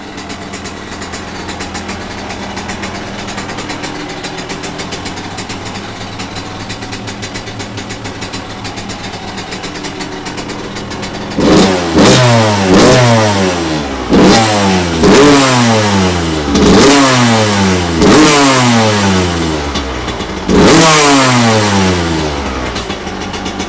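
2007 Suzuki RM85's 85 cc single-cylinder two-stroke engine idling steadily on a freshly changed spark plug. From about halfway through it is revved in about seven sharp throttle blips, each falling back down in pitch.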